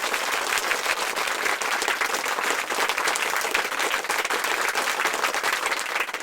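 Crowd applause: many hands clapping steadily.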